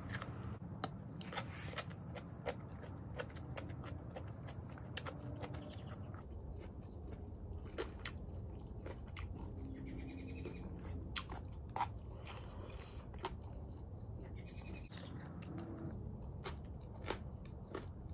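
Close-up chewing and crunching of rice with raw vegetables and fresh herbs, eaten by hand, with many short wet mouth clicks. A bird chirps briefly a few times in the background, about ten and fifteen seconds in.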